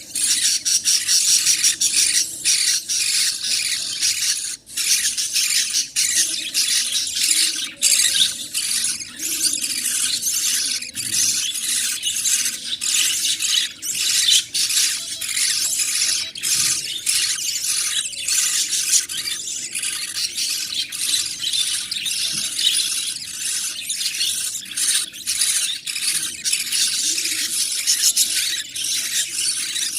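Budgerigar chicks begging while being fed: a continuous, high-pitched chorus of rapid, squealing cheeps.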